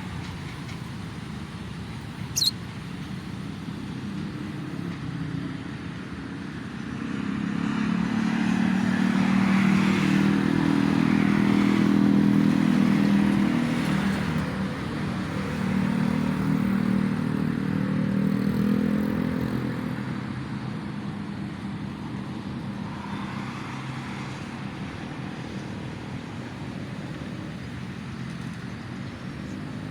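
Road traffic on a toll road: steady engine and tyre noise, with a louder vehicle passing whose engine hum swells from about seven seconds in and fades by about twenty. A short high click sounds about two seconds in.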